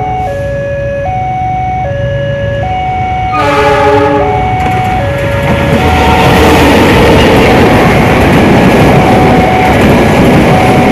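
A diesel locomotive's horn blows a two-note chord that switches back and forth about every three-quarters of a second as the train approaches. Then, about six seconds in, the locomotive and its passenger coaches run past close by, with loud rumbling wheel and rail noise.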